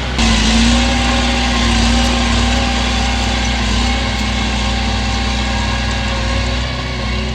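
Heavy diesel engine of earthmoving machinery running steadily. About a quarter second in it suddenly gets louder and harsher, and holds at that level.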